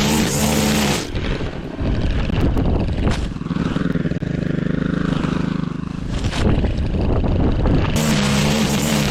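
Petrol lawn mower engine running. For several seconds in the middle its note changes and turns duller, then it comes back to its earlier steady run near the end.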